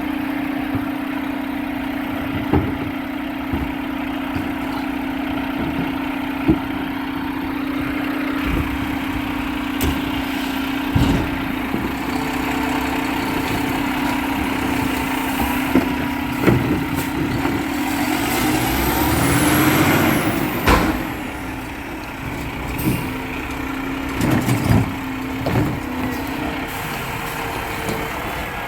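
Garbage truck working at the curb: a steady engine hum that stops near the end, scattered clanks and knocks, and a louder swell about two-thirds of the way through that cuts back off.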